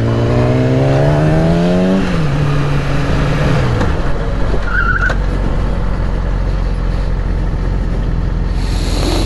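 Motorcycle engine, the 2008 Yamaha R6's inline-four, accelerating with its pitch rising for about two seconds, then falling as it rolls off. Steady wind and road rush follow.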